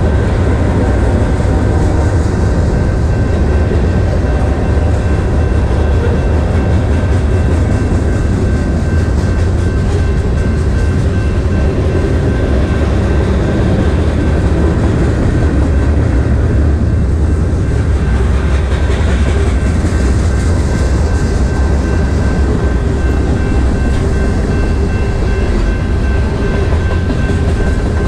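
Freight cars of a manifest train rolling past close by: a loud, steady rumble and clatter of steel wheels on the rails, with a thin steady high tone over it.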